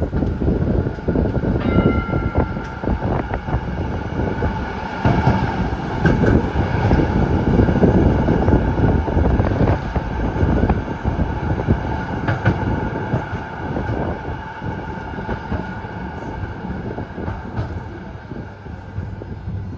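Z3-class tram running, heard from on board: the wheels rumble and clatter on the rails, and a thin high whine comes in about two seconds in. The noise is loudest mid-way and eases off toward the end.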